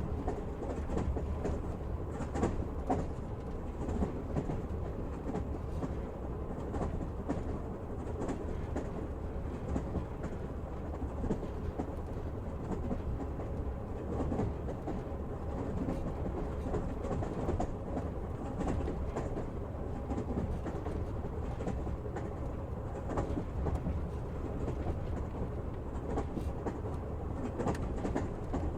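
Train running along the track: a steady rumble of the wheels on the rails, with the clatter of the wheels over rail joints throughout.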